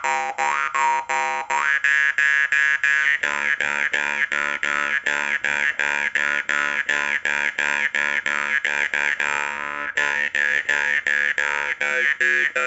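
Khomus (Yakut jaw harp) played in a steady rhythm of about four strokes a second over an unchanging drone, the melody made by overtones rising and falling above it, with a few quick upward slides near the start.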